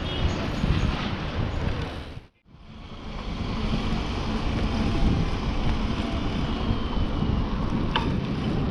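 Wind buffeting the microphone on a moving bicycle, with a steady rumble of street traffic beneath. The sound cuts out briefly about two seconds in, then builds back up.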